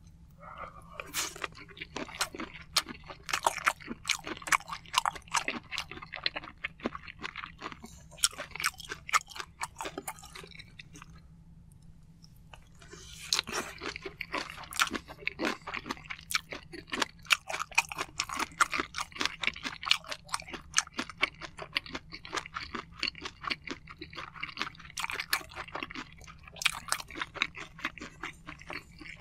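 Close-miked chewing of a mouthful of soy sauce-marinated raw shrimp and white rice: a dense run of fast clicking mouth sounds, breaking off for about two seconds a little before the middle, then starting again.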